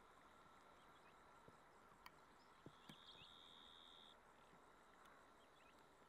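Near silence: faint outdoor hiss with a few scattered soft ticks and, about three seconds in, a faint high steady whine lasting about a second.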